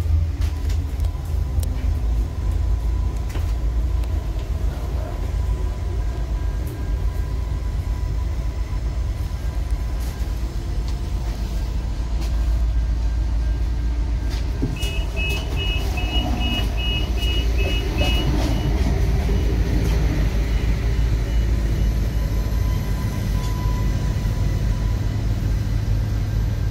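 Inside a suburban passenger train: the car runs with a steady low rumble. About halfway through, a run of rapid electronic beeps sounds for about three seconds.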